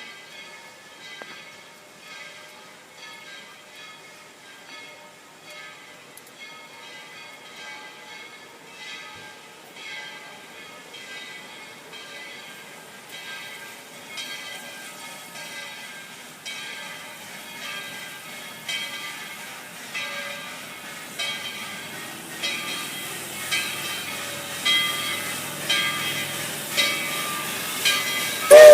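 Steam locomotive's bell ringing steadily, about once a second, growing louder as the train approaches, with a faint hiss of steam near the end.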